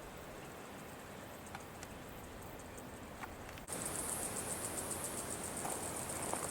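Outdoor ambience with a steady hiss and a few faint clicks. A little over halfway through it cuts abruptly to louder ambience in which an insect chirps high-pitched in a fast, even pulse, about eight a second.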